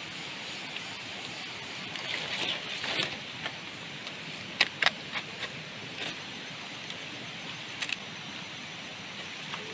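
Steady hiss of heavy rain falling, with a few sharp clicks, the loudest a pair just before five seconds in.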